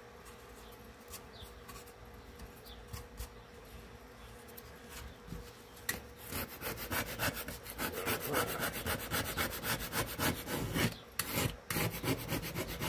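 Scraping and rubbing on the wooden front of a speaker cabinet, cleaning off the old grill-covering residue so new spray glue will stick. It is light at first, then turns into fast, steady back-and-forth strokes from about six seconds in. A faint steady hum runs underneath.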